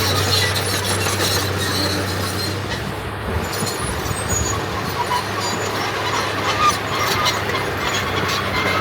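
Diesel earthmoving machinery running steadily, with a low engine hum and scattered metallic clanks and squeaks.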